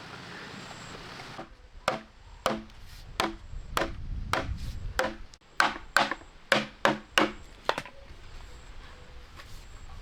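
Repeated chopping blows on wood, about a dozen irregular strikes, each with a short hollow ring, starting about a second and a half in and stopping near eight seconds.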